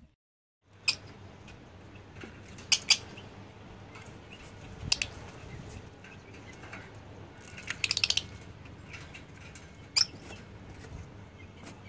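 Birds in a backyard pen making short, sharp calls and scuffles, a few at a time, with a quick flurry about eight seconds in, over a steady low hum.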